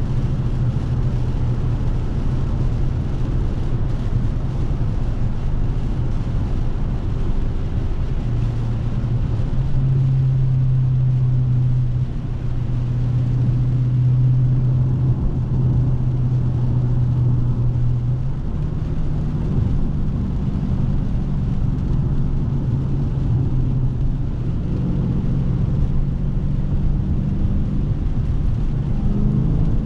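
Dodge Scat Pack's 392 (6.4-litre) Hemi V8 running under steady driving, a low drone that drops in pitch about eight seconds in and climbs again around eighteen and twenty-five seconds in as the engine speed changes.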